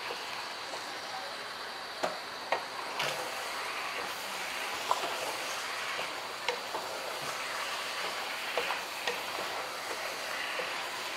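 Marinated chicken pieces sizzling steadily in hot oil with onion and tomato in a pan, with a few light clicks scattered through.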